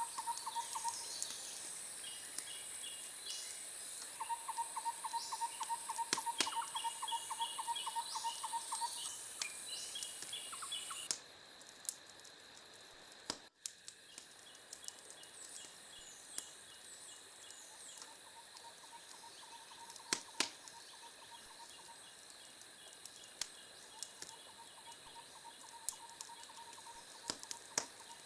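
Outdoor ambience of small animals repeatedly calling in fast pulsed trills and chirps, with scattered sharp clicks. A steady high hiss drops away about a third of the way in.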